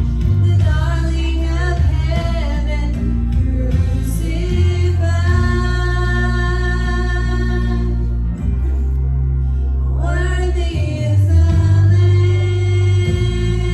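Worship music: voices singing a held melody over a steady bass accompaniment.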